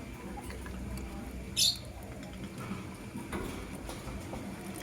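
Lovebird giving one short, high chirp about a second and a half in, with a few faint clicks around it.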